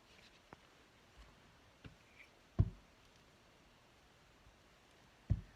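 A few scattered light knocks and clicks from craft supplies handled on a tabletop, the loudest about two and a half seconds in and another near the end.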